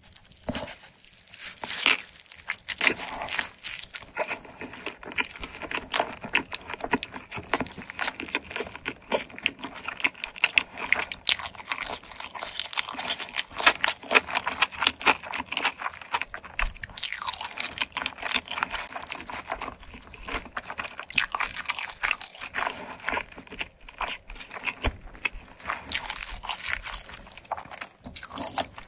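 Close-miked biting and chewing of a pizza slice with a crisp crust: a dense, irregular stream of crunchy, crackly mouth sounds.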